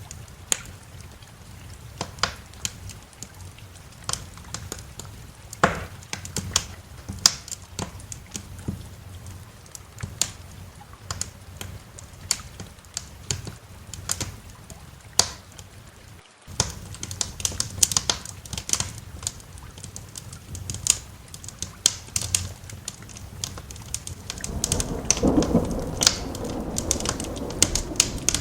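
Wood fire crackling, with sharp irregular pops over a steady hiss of rain. The sound drops out for an instant about halfway through. Near the end a low roll of thunder rises.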